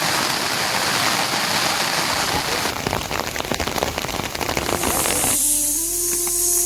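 Steady rain falling, with many separate drop impacts close by from about three seconds in. About five seconds in, the rain gives way to a few steady held tones.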